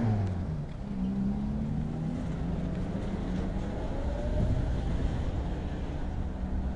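A car's engine and road noise heard while driving: a steady low rumble, with the engine note dropping right at the start as the revs come down.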